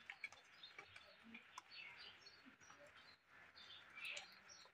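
Near silence with faint, scattered short bird chirps and a few soft ticks.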